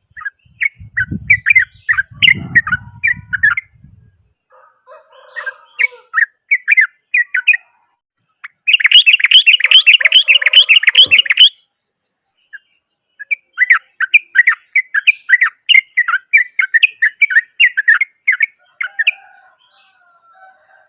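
Yellow-vented bulbul singing in loud phrases of quick bubbling notes. About nine seconds in comes a fast unbroken chatter lasting about three seconds, the rapid 'ropel' song. A faint low rumble lies under the first phrase.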